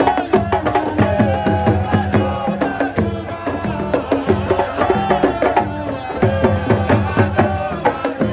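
Lively drum music: many fast hand-drum strokes, with a wavering melodic line or voices over them.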